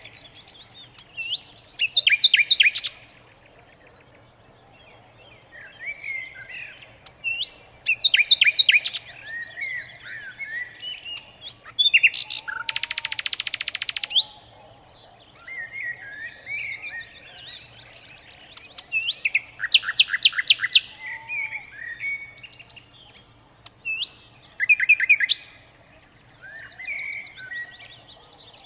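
A songbird singing: every several seconds it gives a loud burst of rapid, sharp repeated notes, with softer twittering chirps in between. About halfway through comes one long buzzy trill lasting about two seconds.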